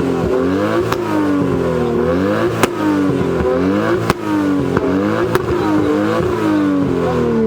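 Car engine being revved hard over and over, its pitch climbing and dropping roughly once a second, with four sharp exhaust pops cracking over it. Near the end the revs fall away steadily.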